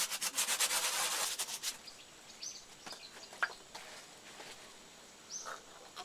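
Quick, rhythmic scraping strokes for about the first second and a half, then a few short bird chirps and scattered light knocks.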